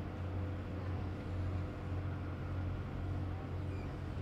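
Cassiopeia sleeper train moving slowly through the station, a steady low hum with no clear wheel clicks.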